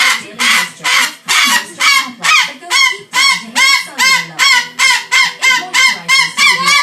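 Pet cockatoo screaming over and over, loud harsh calls repeating about three times a second without a break.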